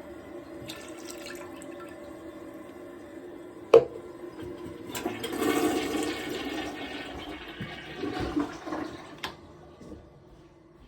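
A single sharp knock, then water pouring and splashing for about four seconds before it stops: the last of the foul drain water being emptied out of the washing machine's drain-filter hose.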